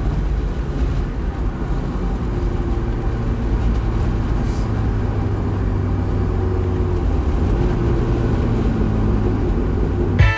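Turbocharged 1.6-litre Mazda MX-5 engine running at a steady cruise, an even low drone whose pitch dips slightly a little past halfway.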